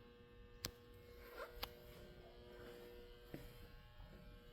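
Near silence: faint room tone with a steady low electrical hum, and a couple of faint clicks.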